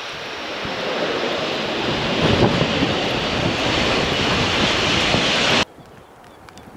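A landing airliner's engines heard close by, a loud rushing noise that builds over a few seconds, mixed with wind buffeting the microphone. It cuts off abruptly about five and a half seconds in, leaving quieter wind noise.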